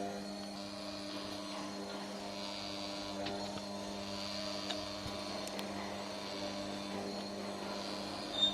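Steady motor hum from a working cutaway model of a Hero Honda Splendor four-stroke petrol engine being turned over, with a few faint clicks.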